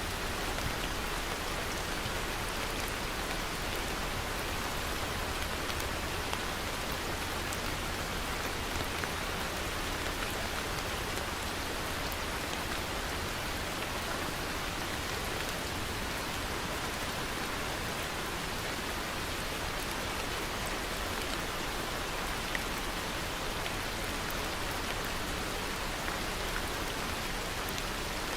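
Steady rain falling: an even hiss with the patter of individual drops, unchanging throughout.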